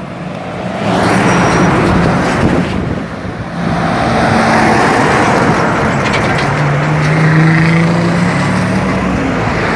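Heavy tractor-trailer truck running loud, engine and road noise together, easing off briefly about three seconds in; a low engine tone rises slightly about two-thirds of the way through.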